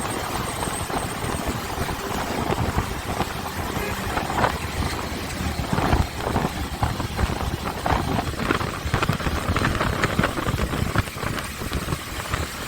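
Motorcycle running while being ridden, its engine under a steady rush of noise with irregular gusty buffeting.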